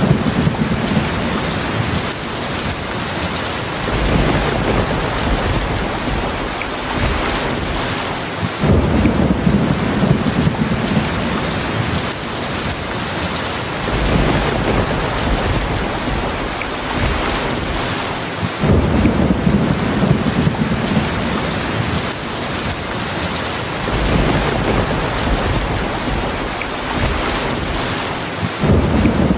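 Heavy rainstorm: a steady hiss of heavy rain, with low rolls of thunder that come in about every five seconds and rumble for a few seconds each time.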